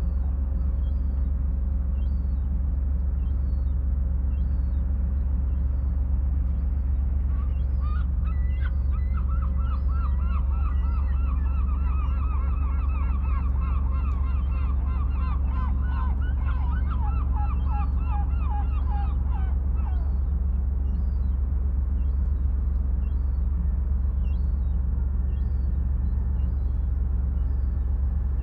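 Steady low rumble of the sea with birds calling over it: thin, short, high chirps throughout, and from about a quarter of the way in a long run of rapid, repeated calls that falls in pitch and stops at about two-thirds of the way through.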